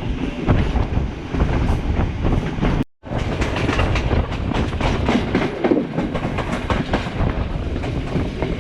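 Udaya Devi express train running at speed, its wheels clacking over the rail joints with a steady rumble and rattle. The sound cuts out for a moment about three seconds in, then carries on the same.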